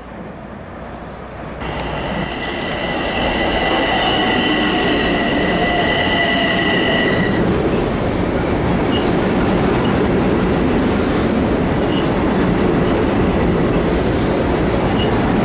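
Long Island Rail Road train running through the station, growing louder over the first few seconds and then holding at a steady rumble of wheels on rail. A high two-tone squeal sounds from about two seconds in and fades out a little past the middle.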